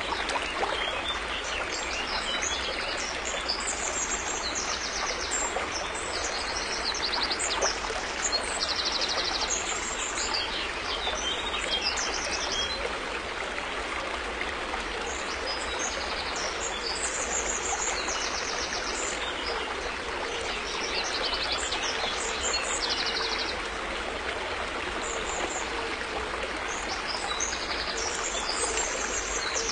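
River water flowing in a steady rush, with small birds chirping and trilling high above it throughout.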